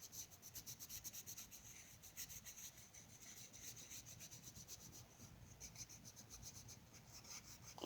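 Faint, quick back-and-forth strokes of a coloring tool rubbing on paper while filling in an area with color.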